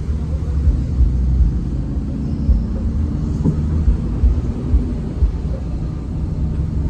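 Hino RM 280 bus's diesel engine running steadily under road rumble while cruising, with small irregular bumps from the road.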